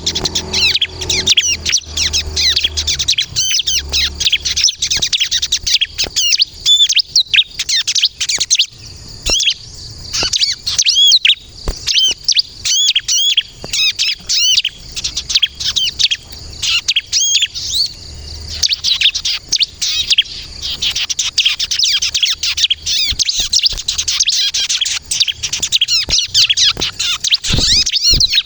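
Bar-winged prinia (ciblek) singing energetically: a fast, continuous run of high, sharp chirps and trills, with brief thinner spells twice.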